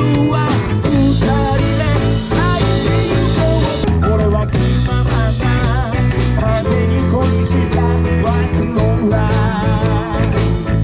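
Rock band playing live: electric guitar and bass over a steady drum beat, with a wavering melodic lead line above.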